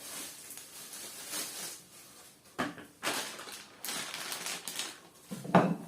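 Rustling and a few light knocks and clatters as the parts of a wooden balance bike kit are handled and unpacked.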